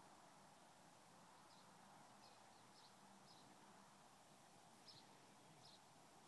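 Near silence: faint outdoor background with distant birds giving short high chirps every second or so.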